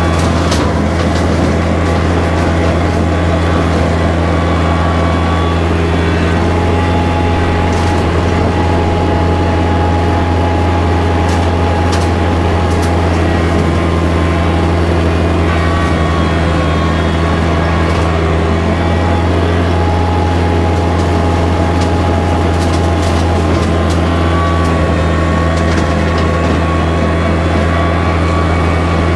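Kubota tractor's diesel engine running steadily at a constant speed, mowing brush with a rotary cutter (bush hog). A few short sharp cracks stand out over the drone.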